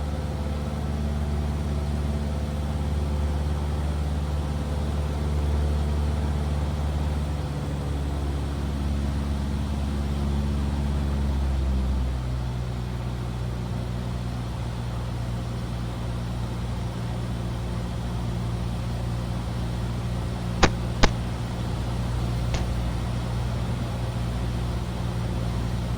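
Cessna 172R's four-cylinder Lycoming engine and propeller drone steadily inside the cockpit. About twelve seconds in, the engine note steps down to a lower pitch as power is reduced in the landing pattern. Two sharp clicks come close together later, then a fainter one.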